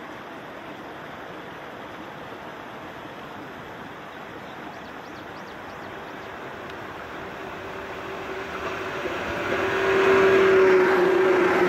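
An electric local passenger train approaching on the line, its running noise building steadily and growing loud near the end, with a steady tone held over the rumble.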